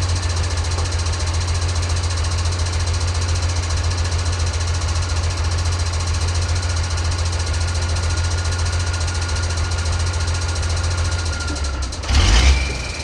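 Ford D-series 1314 truck's turbocharged engine idling steadily with a deep even hum and a faint whine. About twelve seconds in, a brief loud rush of noise covers it for under a second.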